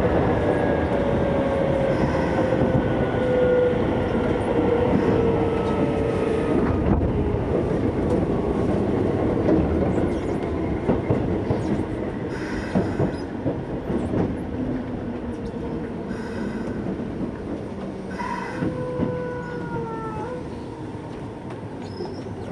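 Keisei 3400-series electric train heard from inside the car as it slows into a station: running noise with a motor whine falling in pitch, a few wheel clacks over rail joints, and a short falling brake squeal near the end.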